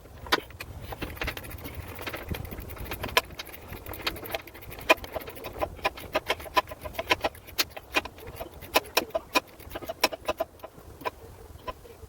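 Metal hand tools clicking and clinking in quick, irregular runs of sharp clicks.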